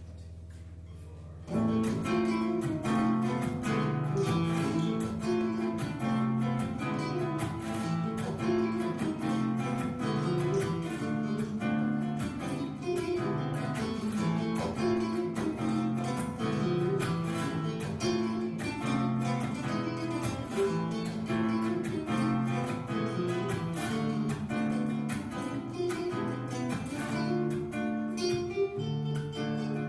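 Background music of plucked, strummed acoustic guitar, coming in suddenly about a second and a half in after a low steady hum.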